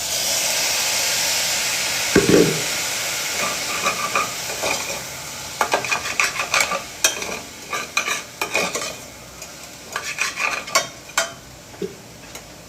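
Water added to a hot pot of okra stew: a sudden loud sizzle that fades away over a few seconds, with a thump about two seconds in. Then a spoon clinks and scrapes against the pot as the stew is stirred.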